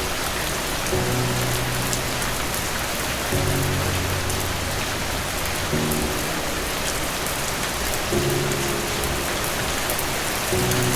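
Steady, even rainfall. Soft, low held musical notes come in about every two and a half seconds underneath it.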